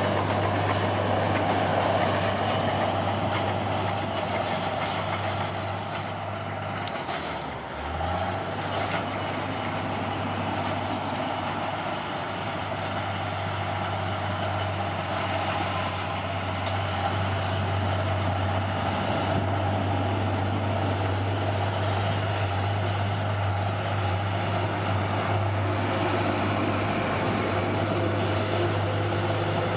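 Caterpillar D6R bulldozer's diesel engine running steadily under work; its note dips briefly about seven seconds in, then picks back up.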